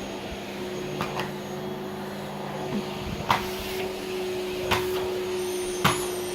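Vacuum cleaner running with a steady hum, with five short sharp clicks spread through it and a faint high whine joining near the end.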